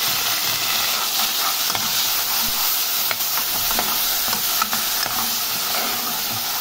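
Chopped onion and garlic sizzling steadily in hot oil in a pan while a metal spoon stirs them, with a few small pops.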